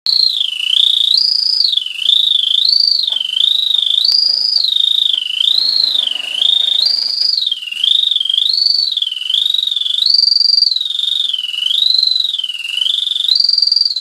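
Wind-up tin singing bird toy whistling one continuous warbling tone that slides up and down, its short tune repeating every few seconds.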